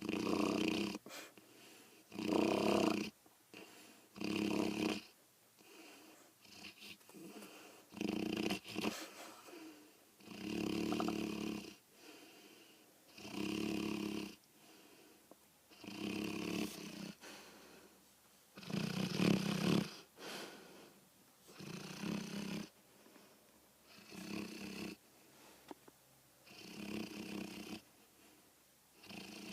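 A dog snoring, a loud snore every two to three seconds with quieter breathing between.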